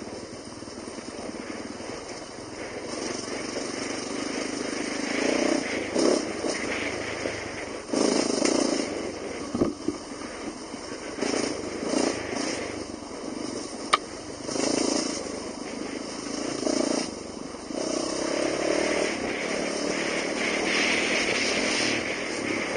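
Dirt bike engine heard from an onboard camera, the throttle opening and closing in repeated surges of a second or two as the bike winds along the trail. A single sharp knock comes about fourteen seconds in.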